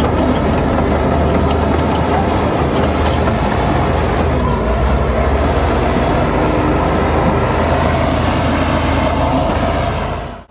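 Heavy diesel earthmoving machinery running steadily with a deep engine rumble; the sound drops away sharply near the end.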